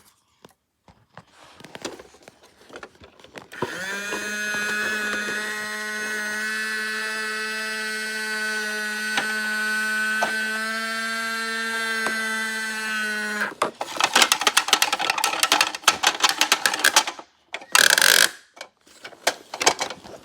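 A small electric motor runs with a steady whine for about ten seconds, then stops. A burst of rapid rattling clicks follows, and a short loud noise comes near the end.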